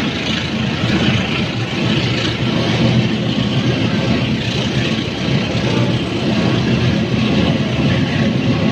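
A train at a station: a loud, steady rumble of a diesel locomotive's engine and its rolling stock.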